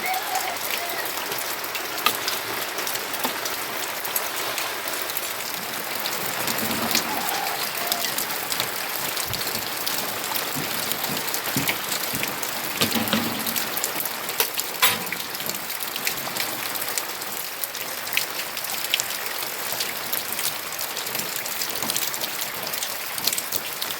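Steady rain falling, with the sharp ticks of many separate drops striking a surface close by.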